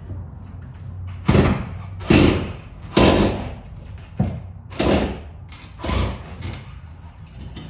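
About six loud knocks and scraping thuds, roughly a second apart, from hands and tools working an old broken dash fan loose inside a school bus.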